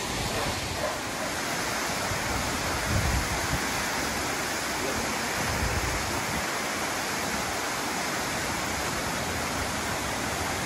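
A large waterfall rushing, a steady, even roar of falling water, with a couple of brief low rumbles about three and five and a half seconds in.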